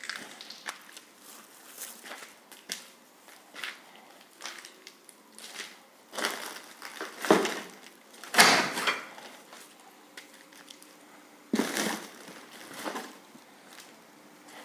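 Footsteps crunching over debris, irregular and uneven, with a few louder crunches a little past halfway and again near the end.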